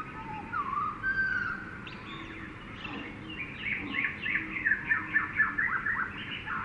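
Jungle soundscape of several birds calling: slurred whistled notes at first, then a fast run of short, falling chirps in the second half.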